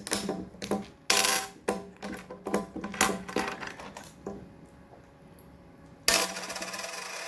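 Metal coins clinking and dropping as an African grey parrot throws them about: a string of sharp clinks in the first four seconds, then a louder, longer rattle of coins near the end.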